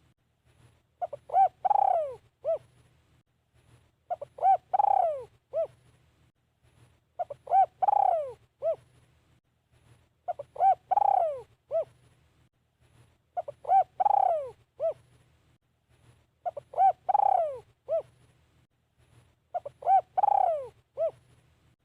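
Spotted dove cooing its phrase over and over, about every three seconds: two short coos, a longer coo falling in pitch, and a short closing note. This is the calling of a caged decoy dove used to lure wild doves.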